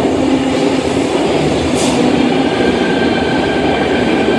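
Sydney Trains electric suburban train pulling into an underground station platform, its wheels rumbling steadily on the rails with faint steady high tones above, as it brakes to stop.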